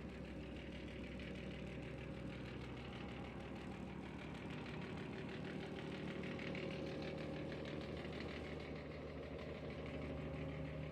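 Scania truck's diesel engine running steadily at an even speed.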